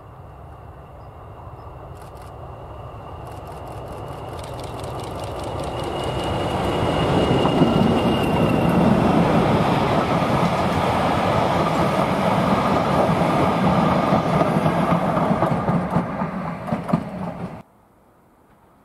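Diesel locomotive hauling a train of coaches, approaching and passing close by: the engine grows louder over about eight seconds with a steady high whine, then the coaches roll past with repeated wheel clicks. The sound cuts off suddenly near the end.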